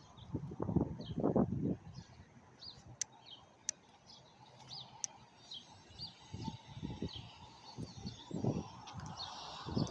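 Small birds chirping repeatedly in short high notes, with bursts of low rumbling noise, loudest in the first two seconds and again later, and a few sharp clicks near the middle.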